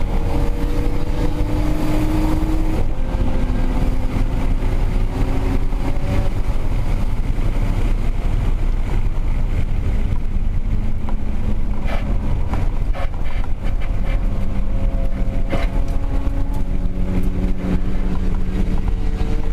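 Turbocharged Toyota Supra 7M-GTE straight-six driven hard on a race track, heard from onboard over heavy road and wind rumble. Engine pitch climbs, drops, and climbs again near the end, with a few sharp clicks in the middle.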